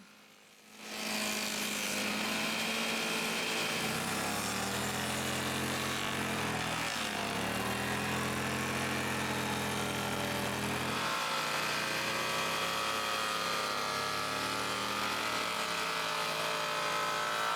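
A power tool cutting rabbets along wooden boards, running steadily. Its motor pitch sags briefly under load about six seconds in and again about eleven seconds in.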